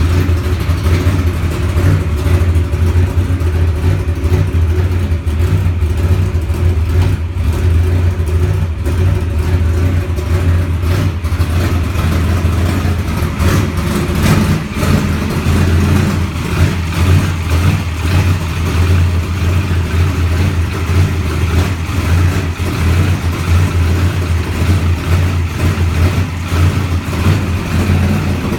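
NASCAR Ford Taurus stock car's pushrod V8 running steadily with a deep, low-pitched note, holding an even speed throughout.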